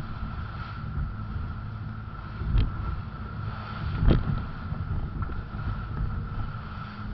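Steady low rumble of a boat on the water with a constant high hum and wind buffeting the microphone. Two sharp knocks come about two and a half and four seconds in, the second louder.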